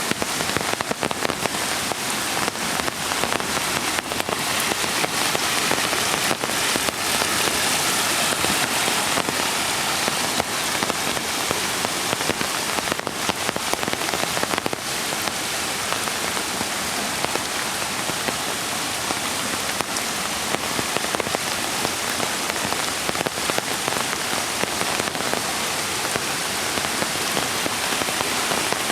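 Steady rain falling, with many individual drops ticking close by over a dense, even hiss.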